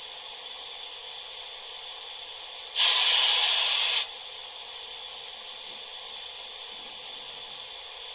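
Recorded steam-locomotive sounds of a BR 45 sound project, played by an ESU LokSound 5 decoder through a model locomotive's loudspeaker. A steady steam hiss, as of the engine standing, runs throughout. About three seconds in, a much louder blast of escaping steam lasts a little over a second.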